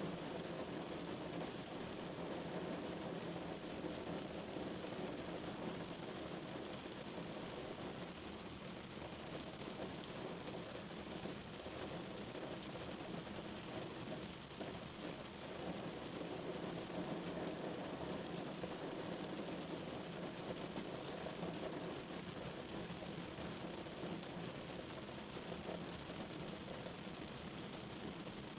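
Steady rain drumming on a car's roof and body.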